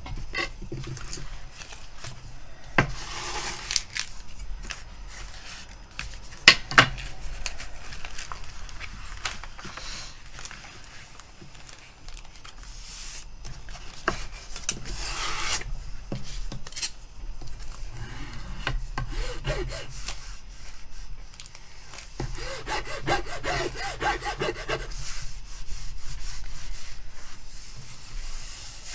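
Steel ruler scraped and rubbed in strokes over the plastic cover film of a diamond painting canvas, pressing out air bubbles trapped under the film. A few sharp clicks sound among the strokes, the loudest about six and a half seconds in.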